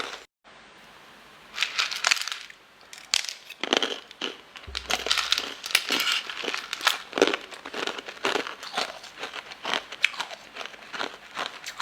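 Close-miked eating sounds: many quick crunchy bites and chewing, with crinkling, after a brief dropout just after the start.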